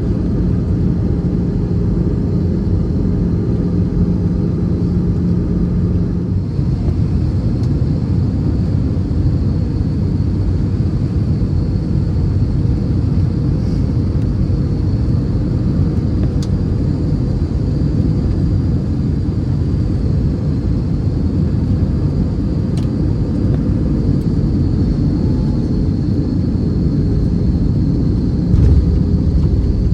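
Cabin noise of an Airbus A320 on descent for landing: steady engine and airflow rumble. A steady hum stops about six seconds in, and the rumble grows louder near the end.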